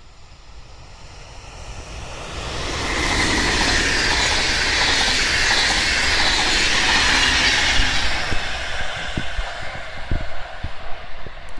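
Electric-hauled passenger train passing at speed: wheel and rail noise swells as it approaches, is loudest for several seconds while the coaches go by, then fades, leaving a few sharp knocks near the end.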